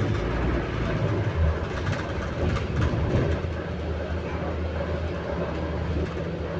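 Inside a moving bus: a steady low drone with rattling and clattering over it, the weird noise this bus makes as it moves.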